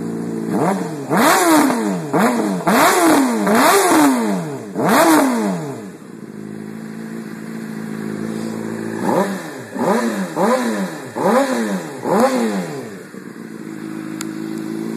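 2008 Honda CBR600RR inline-four with a full exhaust system, idling and then blipped about six times in quick succession. It drops back to idle for a few seconds, then is blipped about five more times before settling to idle again.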